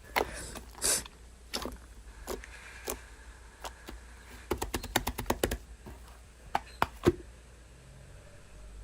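Scattered sharp clicks and taps, with a quick run of about ten clicks around the middle.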